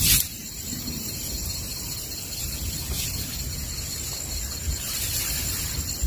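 Steady high-pitched chorus of forest insects, crickets or cicadas, trilling over a low rumble. A sharp crack sounds right at the start.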